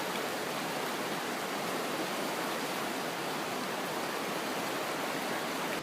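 Steady rushing of falling water, an even hiss with no pitch or rhythm, running at a constant level.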